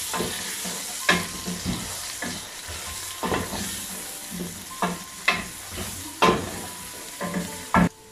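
Onions and ginger-garlic paste sizzling in hot oil, stirred with a wooden spoon that knocks and scrapes against the metal pot every second or so, with a louder knock near the end.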